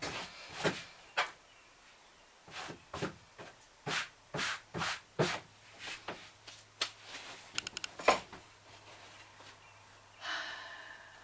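Paintbrush swishing against a wall in short repeated strokes, about two a second, followed by a quick run of small clicks and one sharp knock about eight seconds in.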